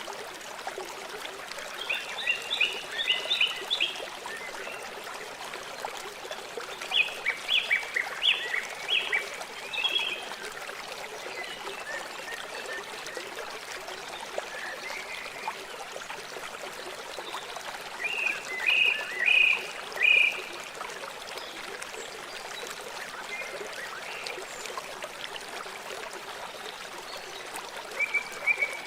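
A river flowing steadily, with four short bursts of rapid, high-pitched repeated calls from an animal, about two, seven, eighteen and twenty-eight seconds in.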